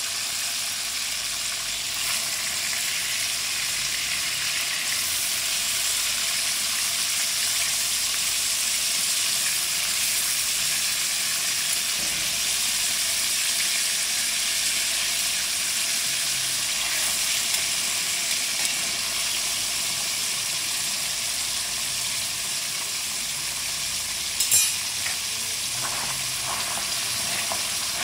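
Tomato halves sizzling and spitting in hot oil in a karahi, turned now and then with tongs and a spatula. A sharp knock comes near the end.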